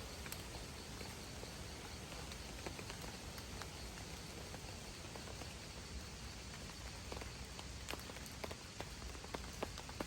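Rain falling on a tent shelter: a steady hiss with individual drops ticking on the fabric, the drops coming more often in the last few seconds.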